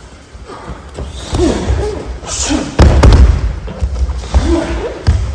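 A body landing heavily on tatami mats after an aikido throw, a loud thud about three seconds in, with lighter knocks and short vocal sounds around it.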